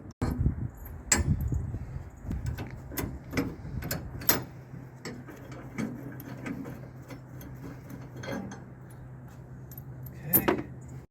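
Irregular metallic clicks and clinks of hand tools working on metal nuts and hardware, with a louder clank about a second in and another near the end. A low steady hum runs underneath through the second half.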